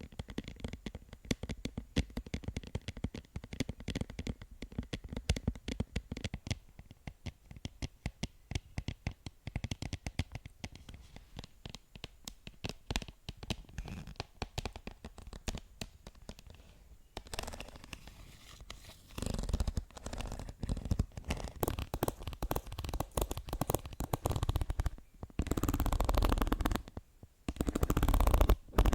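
Close-miked ASMR tapping: rapid light taps, many a second. After about seventeen seconds it gives way to louder stretches of scratching and rubbing that start and stop, the loudest near the end.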